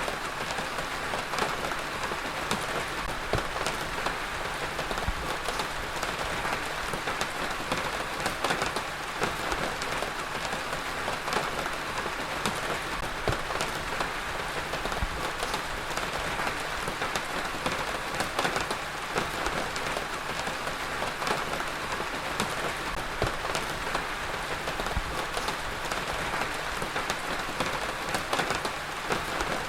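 Steady heavy rain falling on a surface, a continuous patter dotted with the ticks of many separate drops.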